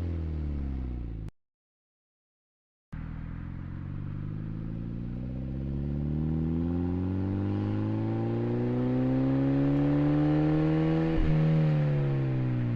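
Hyundai Genesis Coupe 2.0 turbocharged four-cylinder running through an aftermarket cat-back exhaust: revs falling, then a gap of silence about a second in, then the engine pulls steadily up through the revs for about eight seconds before a short sharp click and a drop in revs near the end.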